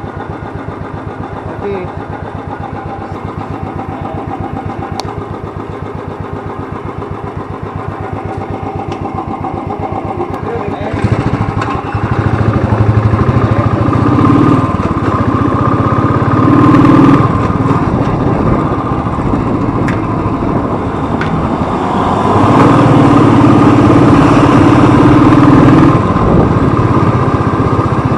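Motorcycle engine idling with an even, fast pulse, then about eleven seconds in it revs up and pulls away, getting louder as it accelerates, with a second louder stretch of acceleration near the end.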